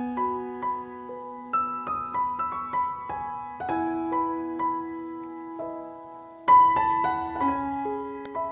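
Background piano music: single notes and chords, each struck and left to ring, with a louder chord about six and a half seconds in.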